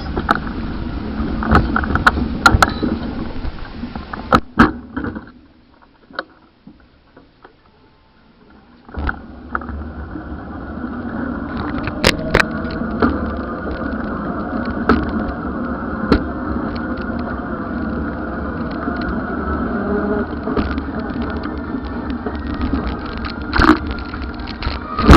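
Road and traffic noise: a steady rumble with scattered clicks and knocks. It drops almost to quiet for about four seconds, about five seconds in, then comes back.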